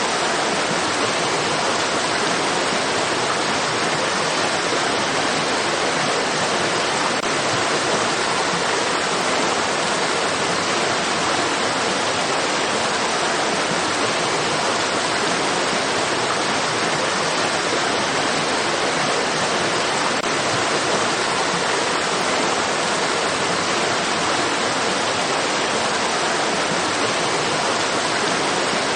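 Running water rushing steadily, an even hiss that neither rises nor falls.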